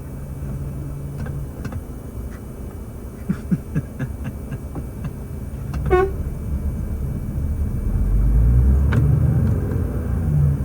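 Truck engine running, with a few light clicks, a brief toot about six seconds in, and the low engine rumble growing louder in the last few seconds.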